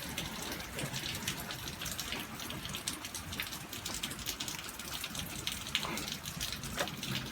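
Rain falling: a steady hiss with many small drips and patters.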